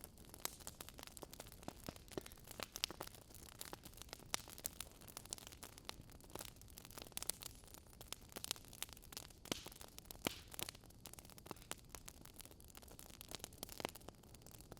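Wood fire crackling: irregular sharp pops and snaps of burning logs over a soft low rush of flame.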